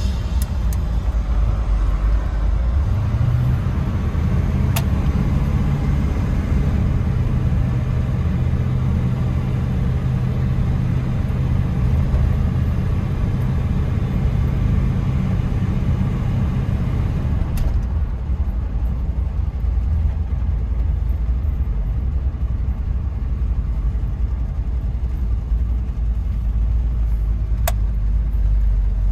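Blueprint 400 small-block V8 of a 1979 Chevy K10 pickup running under way through its Dynomax and Vibrant exhaust, a deep steady drone. Its pitch rises about three seconds in, holds, then eases off at around eighteen seconds. A few sharp clicks are heard over it.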